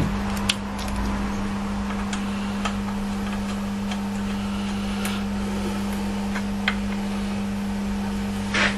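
A few sharp metal clinks spaced a second or two apart, from bolts and hand tools being handled while fitting the gearbox bellhousing to the engine, over a steady low hum.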